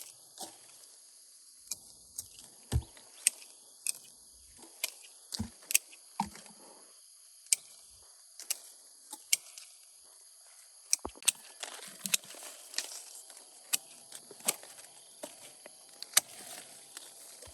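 Irregular sharp clicks and knocks, about one or two a second, over a steady high-pitched drone.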